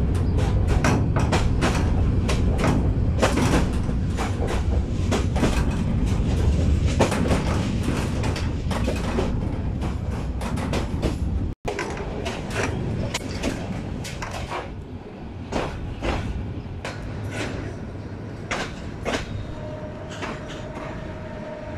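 Passenger train running along the track, heard from inside the carriage at an open window: a steady low rumble with rapid, irregular clacks of the wheels over the rail joints. The sound cuts out for an instant about halfway, and after that the rumble is lighter while the clacks go on.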